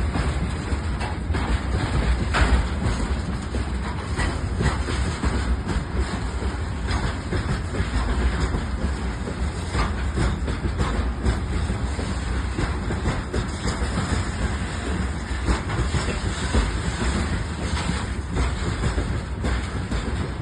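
A train passing close by: a steady rumble with wheels clicking over the rail joints.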